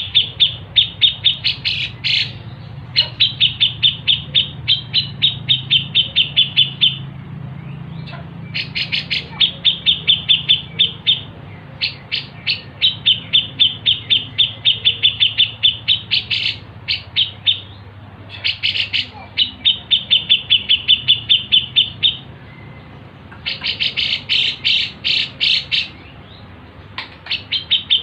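Songbirds singing in repeated chirping runs: sharp notes at several a second, each run lasting a few seconds with brief pauses between.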